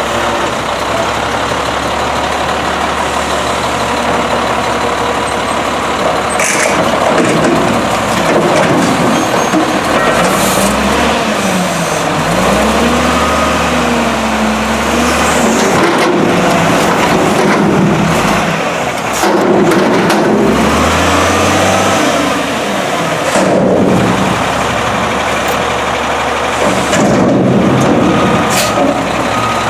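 Garbage truck's diesel engine running and revving up and back down several times, its pitch rising and falling in swells.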